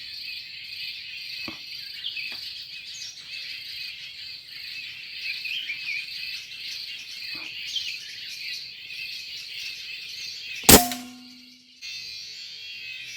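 Steady chorus of insects with scattered bird chirps and calls. About eleven seconds in, a single sharp crack, the loudest sound, is followed by a short steady tone and a moment of near silence.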